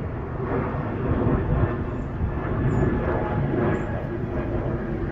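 Jet airliner flying over, a steady rumbling roar of engine noise.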